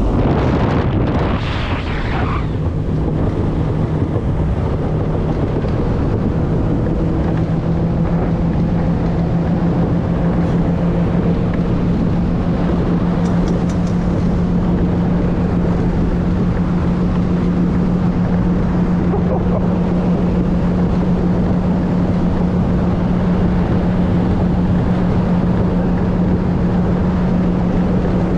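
Boat motor running at a steady speed, a constant low drone under the rush of wind on the microphone.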